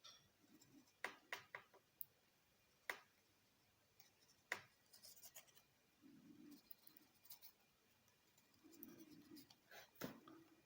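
Origami paper being pleated and pinched into creases by hand: faint rustling with a scattering of sharp crinkles and snaps of the paper.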